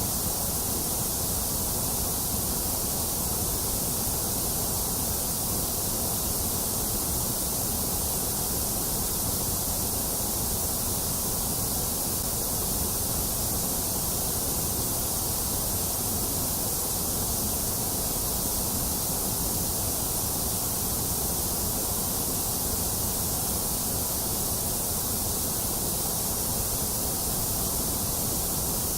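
Steady white noise: an even, unbroken hiss that does not change, strong in the high end.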